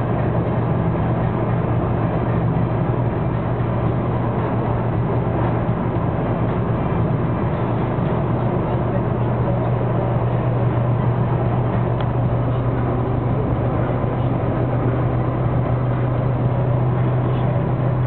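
Mercedes-Benz W123 200D's four-cylinder diesel engine pulling at full throttle at motorway speed, heard from inside the cabin as a steady drone over road and wind noise.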